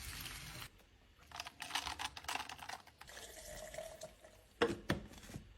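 A quick run of light clicks and taps from kitchen prep work, with a few sharper knocks near the end.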